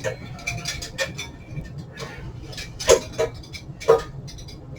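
A run of small clicks and clinks, with two louder knocks about a second apart past the middle.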